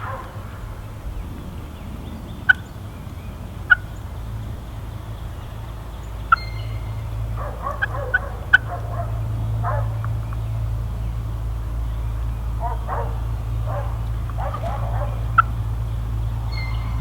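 Wild turkeys calling: several rattling gobbles between about 7 and 15 seconds in, with scattered short, sharp clucks, over a steady low rumble.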